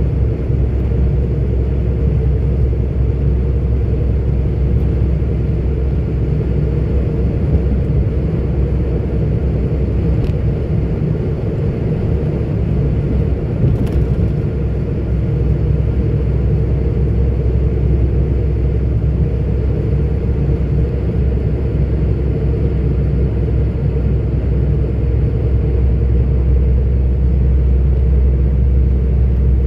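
A 44-ton articulated truck driving at a steady pace, its diesel engine and road noise making a continuous low drone and rumble. It grows slightly louder near the end.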